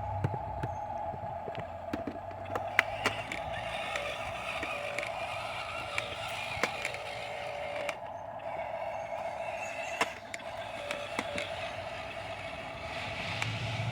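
Dump truck engine running with a steady drone, a deeper rumble swelling near the end, and frequent sharp clicks and knocks scattered throughout.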